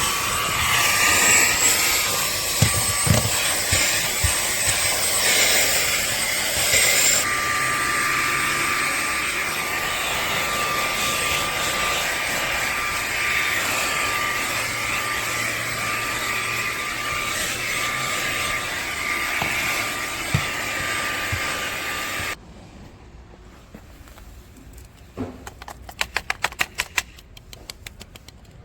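Cordless handheld vacuum cleaner running with a steady high whine, shifting to a different speed setting about 7 s in and switching off abruptly about 22 s in. A quick run of faint clicks follows near the end.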